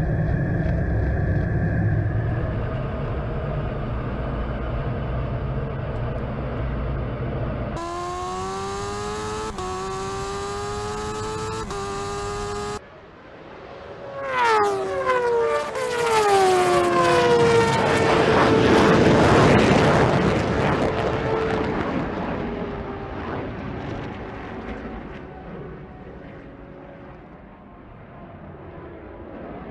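Racing vehicles in a drag race, in several cuts: first a steady low engine rumble, then a high-revving engine accelerating with a rising pitch broken by three quick gear changes. Then a vehicle passes at speed with its pitch dropping steeply, followed by a loud rushing roar that slowly fades.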